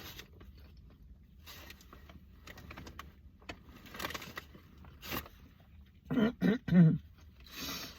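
Faint mouth sounds of someone eating a burger, then about six seconds in a person clears their throat in three short voiced bursts.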